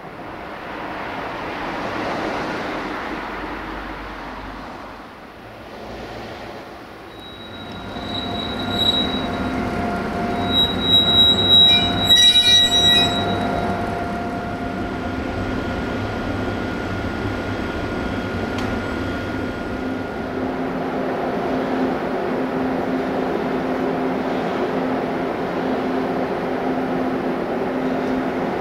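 Electric locomotive and passenger coaches rolling into the station, their brakes squealing in several high steady tones from about 7 to 20 seconds in, loudest around 12 seconds. As the train comes to a stand, a steady low hum remains.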